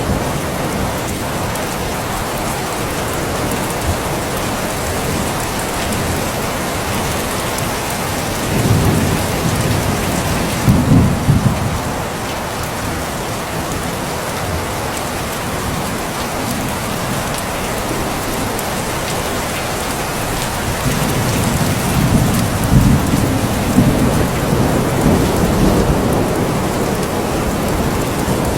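Steady rain falling, with low thunder rumbling twice: once about nine seconds in, and again through the last third.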